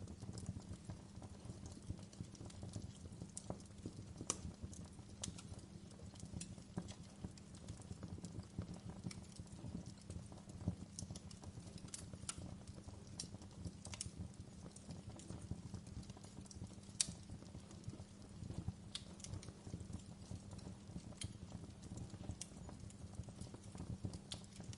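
Fire burning in a fireplace: a low steady rumble of flames with frequent scattered crackles and pops, a few sharper than the rest.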